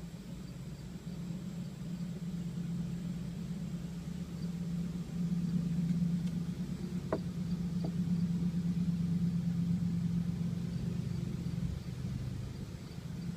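A motor running steadily with a low, even hum, like an engine idling, swelling slightly partway through, with two faint clicks about seven seconds in.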